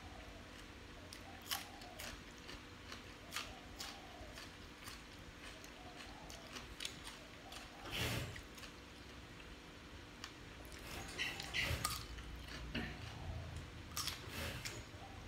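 A man chewing and eating with his mouth close to the microphone: scattered faint lip smacks and small clicks, the loudest mouth sound about eight seconds in and a run of them near the end.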